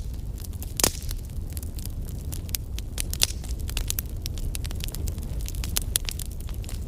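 Wood fire crackling, with frequent sharp snaps and pops and one louder pop about a second in, over a steady low rumble.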